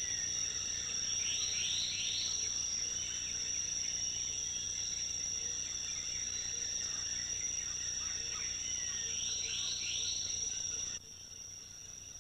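Rainforest insects keep up a steady high-pitched drone, twice broken by a call of three quick rising notes. The sound drops abruptly to a quieter background about a second before the end.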